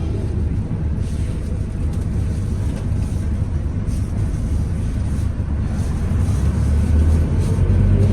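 City bus diesel engine running under way, heard from inside the cabin: a steady low rumble that grows a little louder over the last two seconds.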